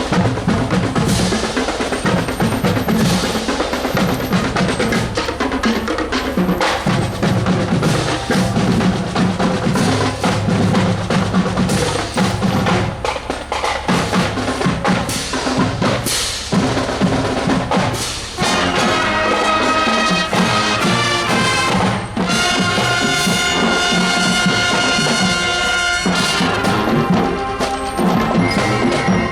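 Marching show band drumline playing a cadence on snare and bass drums; about 18 seconds in, the horns come in with held chords over the drums.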